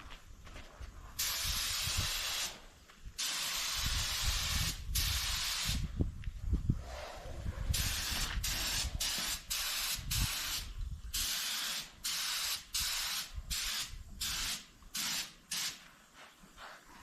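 Paint spray gun hissing as it sprays automotive paint: long passes of one to two seconds at first, then many short bursts as the trigger is pulled and released.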